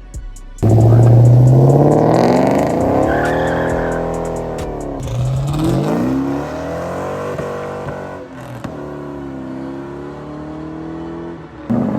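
A car engine revving hard as it pulls away. Its pitch climbs for about two seconds and falls off, climbs again about five seconds in, then holds a steadier note before another loud rev starts near the end.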